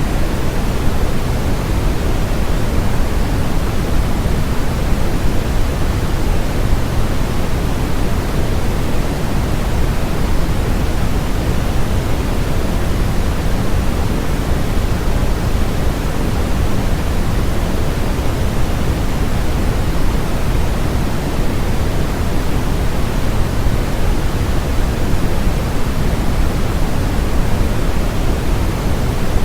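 Steady, unchanging generated noise, a constant hiss with more weight in the low end than the highs, as played for sleep or concentration.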